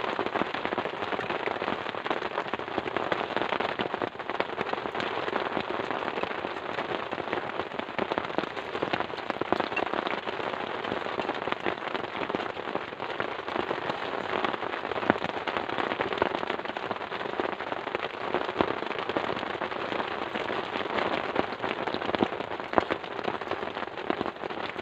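Steady rain, with many sharp drop hits on a nearby surface.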